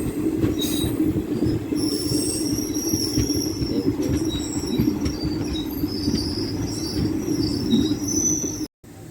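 DEMU passenger train running with a steady rumble while slowing into a station, with thin high-pitched metallic squeals from the wheels coming in about two seconds in and continuing until near the end.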